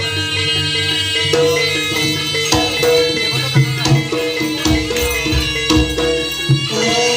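Live Javanese jaranan (kuda kepang) music: an ensemble of drums and ringing pitched tones playing a steady, rhythmic accompaniment.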